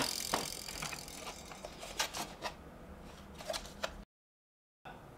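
Light clicks, taps and rattles of an electronic control board and small parts being handled on a workbench, with a brief dropout to dead silence near the end.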